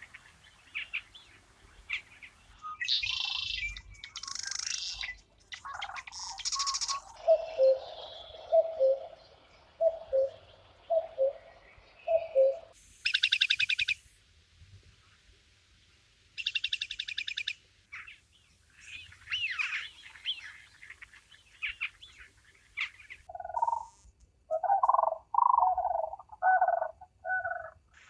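Birds calling and singing: a varied run of high chirps, then a series of about six evenly spaced lower notes, then two fast trills, and near the end a cluster of short lower calls.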